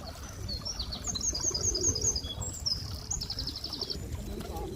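Songbird singing: a run of short high notes, then a fast trill of evenly repeated notes near the end, over a low steady outdoor rumble.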